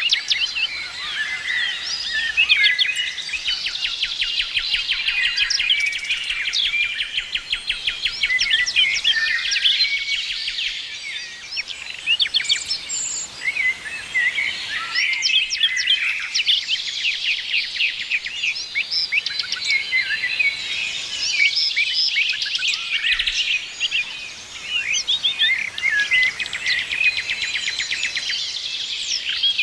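Several songbirds singing and chirping at once, a dense chorus of overlapping trills and rapid repeated notes.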